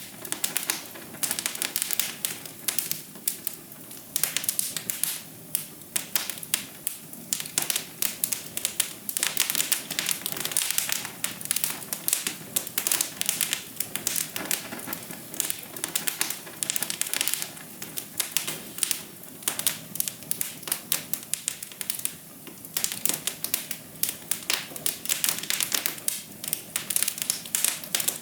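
Fire crackling in a fireplace: dense, irregular sharp pops and snaps over a steady low hiss.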